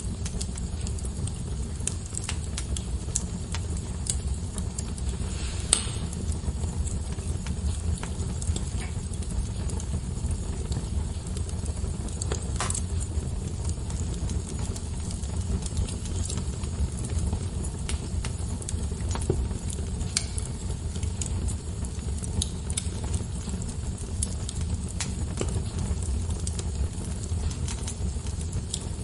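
Wood fire burning in a fireplace: a steady low rumble of flames with scattered crackles and a few louder pops.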